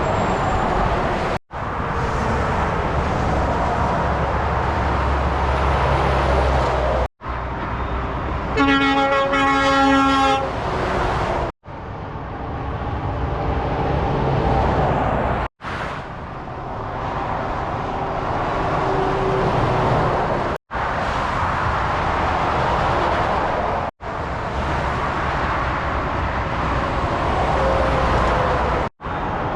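Lorries and other traffic passing at motorway speed, their tyre and engine noise swelling and fading, with a horn sounding in two short blasts about nine seconds in. The sound cuts off abruptly several times.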